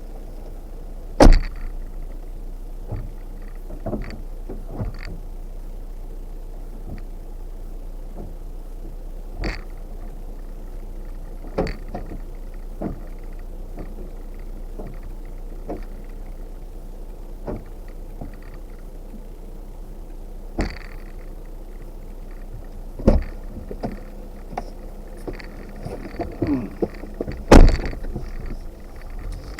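Off-road vehicle crawling over a rocky trail: a steady low rumble broken by sharp knocks and clunks every few seconds. The loudest knocks come about a second in and near the end.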